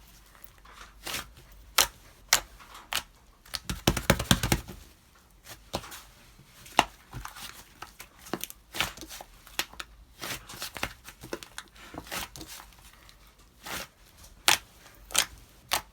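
White slime being squeezed and pulled by hand, giving irregular sticky clicks, pops and crackles, with a quick run of them about four seconds in.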